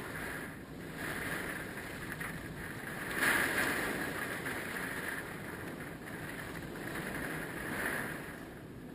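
Hurricane Michael's wind gusting, a rushing noise that swells and eases several times, strongest about three seconds in.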